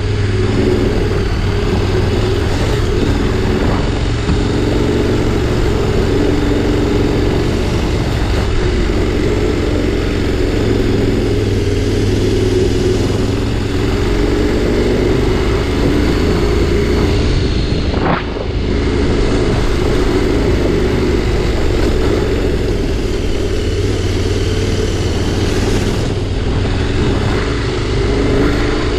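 Adventure motorcycle engine running steadily while the bike is ridden along a dirt road; the engine note dips briefly once, about two-thirds of the way through.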